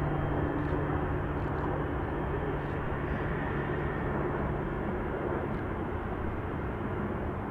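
Steady rumble of a jet airliner's engines, with a low hum that fades out about five seconds in.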